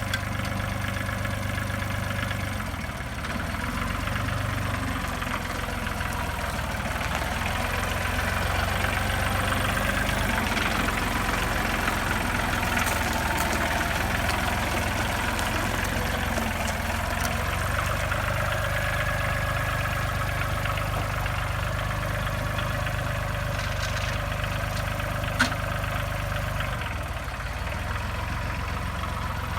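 Ford 1720 tractor's three-cylinder Shibaura diesel engine running steadily, with one sharp click near the end.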